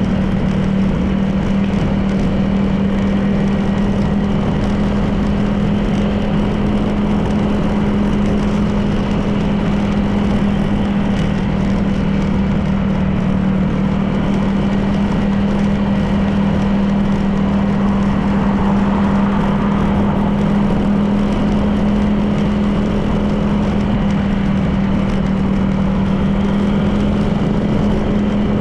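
Honda PCX 160 scooter's single-cylinder engine running at a steady cruise, a constant even hum under road and wind noise.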